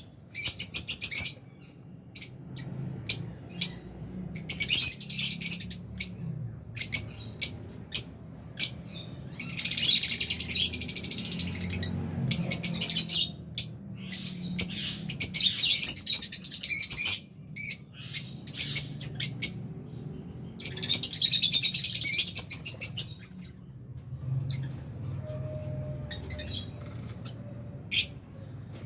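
A flock of lovebirds chirping and chattering: a run of short, sharp high chirps broken by several dense bouts of shrill twittering a few seconds long.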